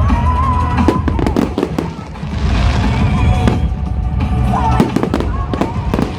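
Fireworks display: a rapid string of sharp bangs and crackles over a continuous low rumble, with music playing alongside.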